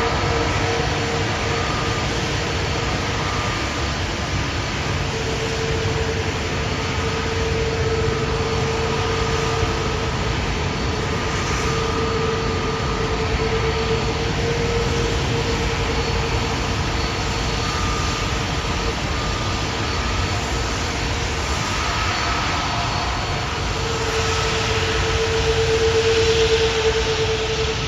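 Jet airliner noise: a steady rumble with a constant whine running through it, swelling louder near the end.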